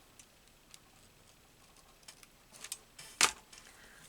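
Paper cutouts being handled on a craft table: a few faint ticks and rustles, then one sharp click about three seconds in.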